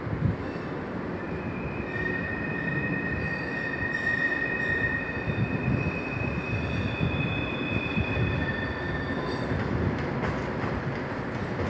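An Intercités train, an electric locomotive hauling passenger coaches, rolling slowly into the station: a steady rumble of wheels on track with a high, steady wheel squeal from about a second in that fades out around nine seconds, then a few sharp clicks near the end.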